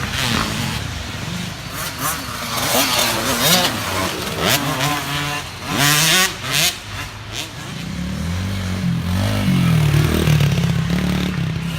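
Small youth dirt-bike engines running and revving on the track, their pitch stepping up and down and loudest in the second half. A person's voice calls out over them in the first half.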